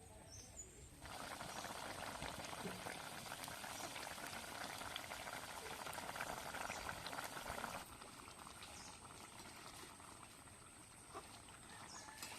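Curry gravy boiling in a pot, a dense bubbling that starts suddenly about a second in and cuts off suddenly near eight seconds, leaving a fainter background.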